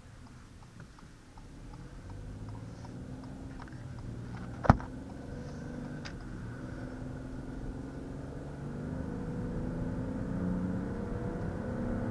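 2020 Ford Escape's 1.5-litre EcoBoost three-cylinder engine and tyre noise heard from inside the cabin while driving, quiet at first and growing louder as the SUV picks up speed, with the engine's pitch rising near the end. One sharp knock sounds a little before the middle, then a fainter click.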